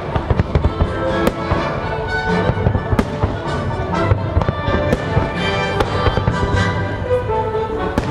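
Fireworks bursting in a rapid, irregular string of bangs and crackles, over the show's orchestral music soundtrack.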